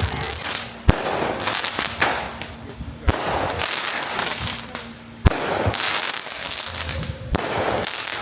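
Fireworks going off: four sharp bangs about two seconds apart, each followed by a spreading noise.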